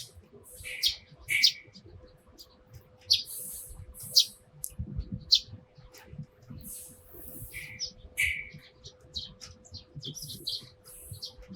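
Eurasian tree sparrows chirping: many short, sharp chirps in quick, irregular succession, over a faint steady hum.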